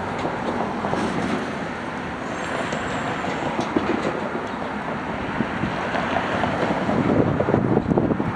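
Natural-gas garbage truck running, with rattles and clanks that get louder and busier near the end, and wind buffeting the microphone.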